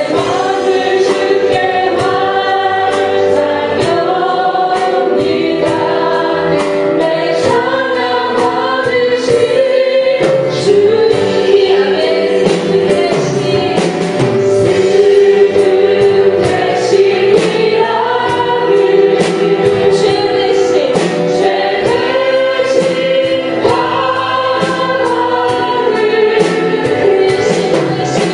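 Live Christian worship music: a praise band with drums plays while a group of singers sings a Korean praise song.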